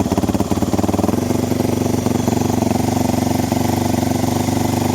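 A 2015 Yamaha WR250F's single-cylinder four-stroke engine running on choke straight after a hard cold start. About a second in it settles from uneven running into a steady fast idle.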